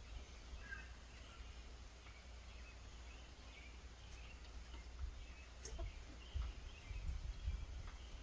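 Faint outdoor ambience with scattered soft, short bird calls, likely from the chickens. A low rumble on the microphone grows stronger near the end.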